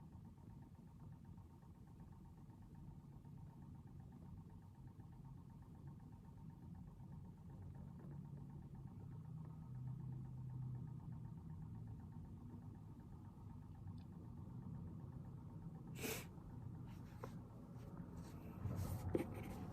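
Faint, steady low rumble in the background that swells a little about halfway. Near the end comes a sharp click, then pen scratching on paper.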